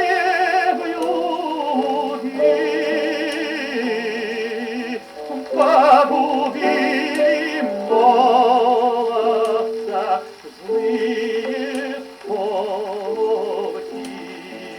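Music from an old recording of a Russian song: a melody with heavy vibrato over accompaniment, with no bass and no treble. A few faint clicks sit on the surface noise.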